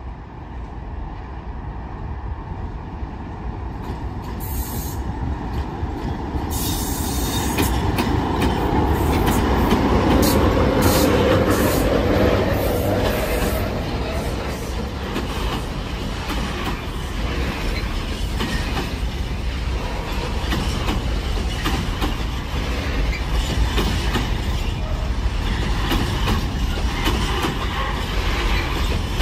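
Freight train hauled by a class 60 diesel-electric locomotive approaching and passing: the diesel's engine swells to its loudest about ten seconds in. The wagons then roll on steadily, clicking over the rail joints, with brief high wheel squeals.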